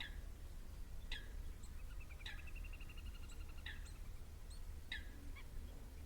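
Birds calling at a pond: a short call falling in pitch repeats about every second and a quarter, with a rapid trill in the middle, over a steady low rumble.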